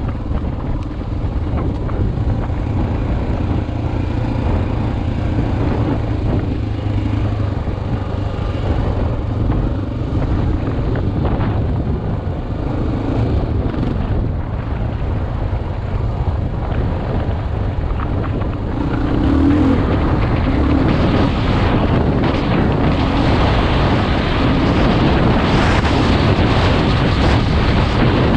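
Single-cylinder four-stroke dual-sport motorcycle engine running under way, with wind buffeting a helmet-mounted camera's microphone. Engine and wind get louder about two-thirds of the way through.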